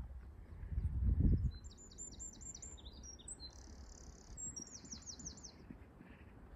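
A songbird singing a quick, high song of repeated down-slurred notes in two runs, with a brief low rumble about a second in.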